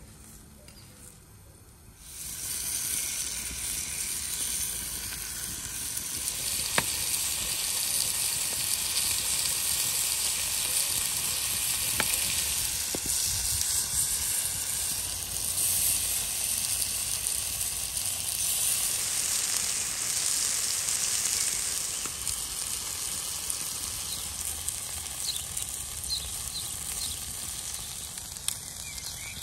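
Potato and tomato slices sizzling on a hot flat stone slab, a steady hiss that starts abruptly about two seconds in, with a few sharp clicks.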